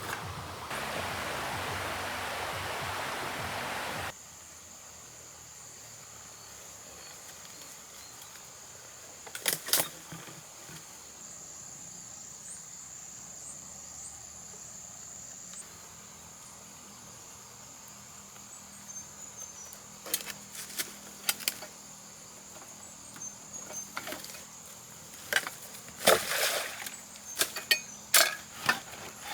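A steady high insect trill from crickets or cicadas, with scattered sharp knocks and clatters, several of them in the last third. A loud rushing noise fills the first four seconds and cuts off abruptly.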